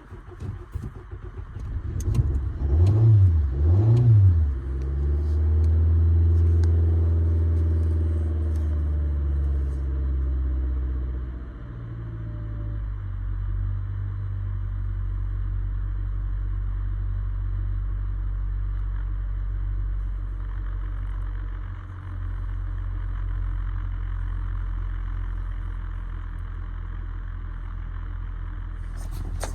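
2014 Nissan Altima engine cranking, catching and flaring up twice, then running at a fast idle that settles to a lower steady idle about twelve seconds in.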